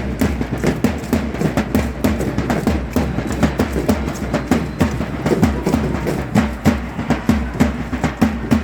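Drum music for a matachines-style dance: a drum beating a fast, steady rhythm of sharp strokes.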